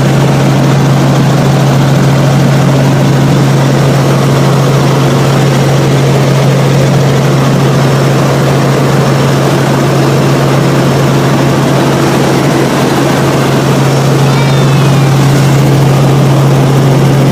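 Helicopter in flight heard from inside the cabin: a loud, steady drone with a strong low hum under a broad rushing noise.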